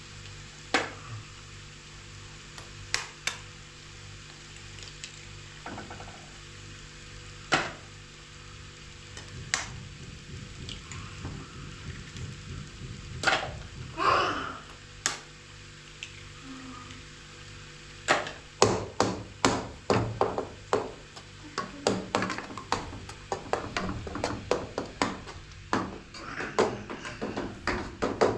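Hammer blows: a few scattered strikes at first, then a fast, steady run of blows, two to three a second, from about two-thirds of the way in, over a low steady hum.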